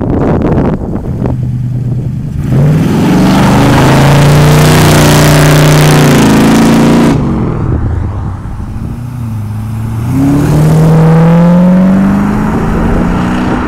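American V8 cars accelerating hard away one after the other. First comes a loud full-throttle launch, the engine note rising under a hiss of wheelspin, which cuts off abruptly about seven seconds in. About ten seconds in, a second engine revs up as it pulls away.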